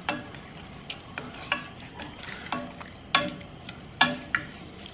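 Wooden spatula stirring chicken and vegetables in a stainless steel saucepan, knocking against the pan's sides in irregular clinks that ring briefly. Under the knocks the broth simmers steadily.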